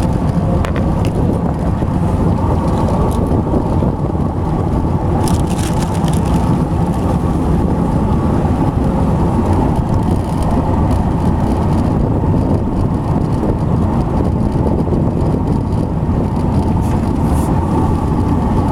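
Jet boat's 350 V8 engine running steadily, with an engine noise that the owners think probably comes from worn water pump and alternator bearings, maybe with a slightly loose lifter.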